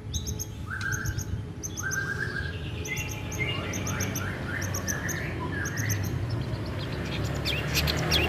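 Long-tailed shrike (cendet) singing: a run of quick, high, repeated chirps mixed with lower notes that slide in pitch, over a low background rumble.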